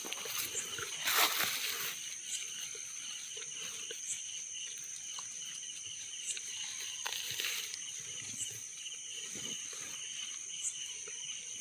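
Insects buzzing steadily in a high continuous drone, with a fainter pulsing chirp beneath it. Brief rustles break in about a second in and again around seven seconds.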